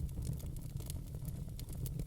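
Wood fire burning in a fireplace: sharp irregular crackles and pops over a steady low rumble of the flames.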